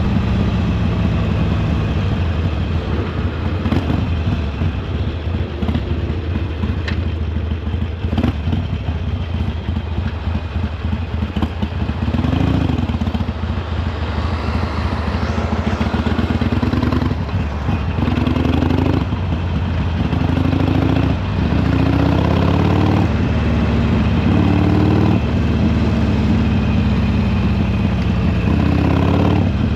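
Harley-Davidson Sportster Iron 883's air-cooled V-twin running under way. The engine note rises and falls once about twelve seconds in. In the second half it makes several short climbs in pitch, each cut off by a drop.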